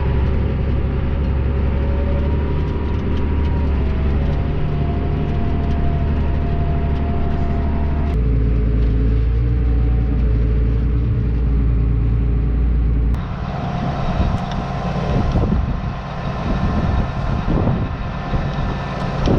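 Tractor engine running steadily with a deep, even hum; about eight seconds in it settles to a lower pitch. From about thirteen seconds in the sound turns uneven and gusty, with wind buffeting over the engine.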